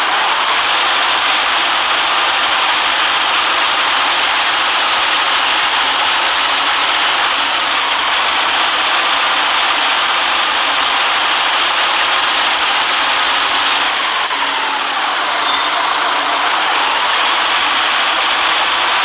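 City bus running on a wet road: steady engine and road noise. It eases about three-quarters of the way through, with a falling then rising pitch, and then picks up again.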